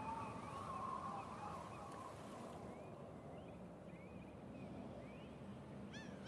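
Faint birds chirping in short, scattered calls, with a brighter rising chirp near the end. A soft held tone fades out over the first two seconds.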